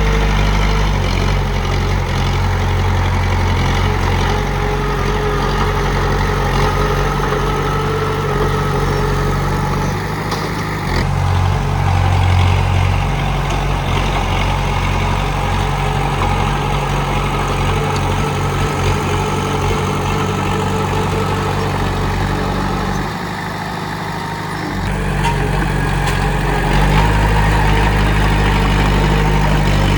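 Komatsu D31P bulldozer's diesel engine running steadily, its low note dipping briefly about a third of the way in and again for a couple of seconds near 23 s in before coming back up.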